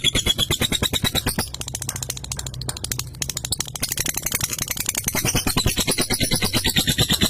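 Lovebird ngekek: a long, rapid chattering trill of sharp repeated notes, about ten a second. It softens for a couple of seconds about a second and a half in, then picks up again at full strength.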